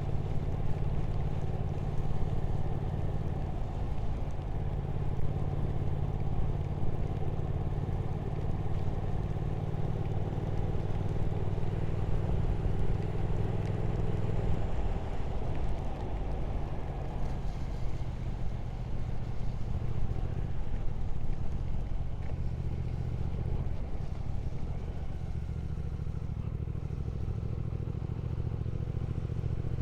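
Motorcycle engine running steadily under way, with wind noise over it. The engine note drops back about halfway through and picks up again near the end.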